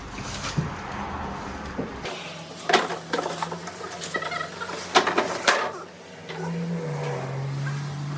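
Scattered sharp knocks and light clatter over a steady low hum; a low rumble stops about two seconds in.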